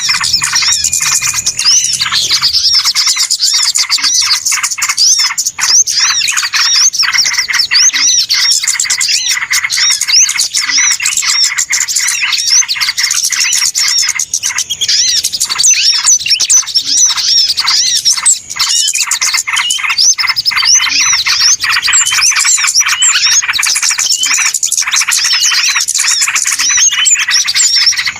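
Noisy, dense chorus of many small birds chirping and twittering at once, with rapid short notes overlapping without a break: a bird-lure (pikat) recording meant to draw small birds in.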